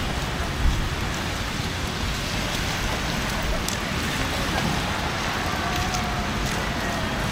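City street ambience in a snowstorm: a steady hiss of wet snow falling and slush, with faint distant voices and one short low thump about a second in.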